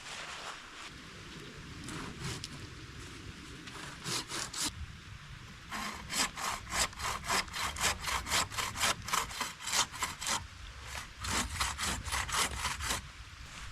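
Hand saw cutting through firewood with quick back-and-forth strokes in a few runs, the longest lasting about four seconds.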